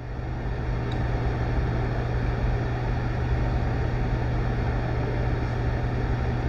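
Steady low hum over a faint even hiss of background room noise.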